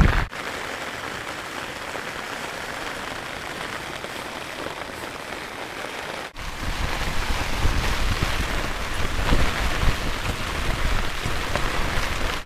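Steady patter of rain, in two shots cut together about six seconds in; the second shot carries more low rumble.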